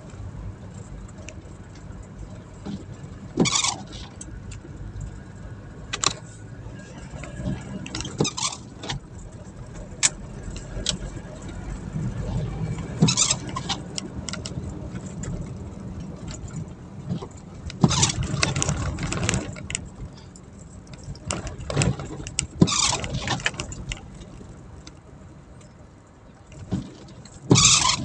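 Car on the move, a steady low engine and road rumble, with brief loud hissing sounds cutting in every few seconds.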